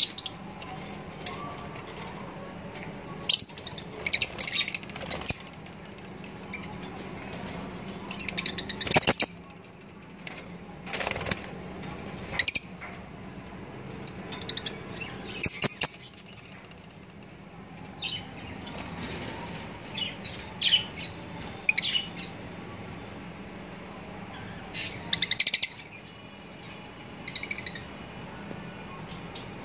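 Short bursts of high bird chirps every few seconds, over a steady low hum.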